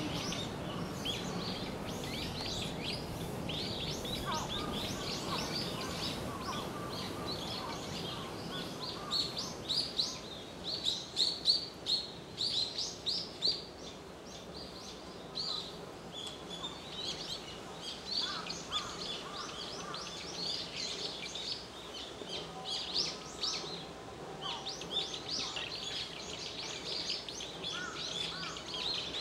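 Small birds chirping in many short, high calls, busiest and loudest about ten seconds in, over a steady low background noise.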